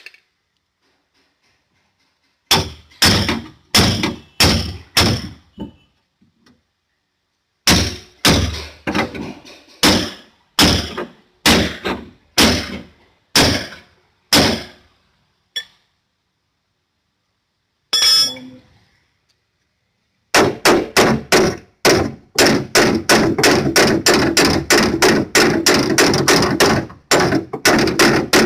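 Hammer blows on a car's sheet-metal body panel, beating out damage: a run of about six strikes, a longer run at roughly two a second, a single blow, then a rapid series of about three to four blows a second near the end.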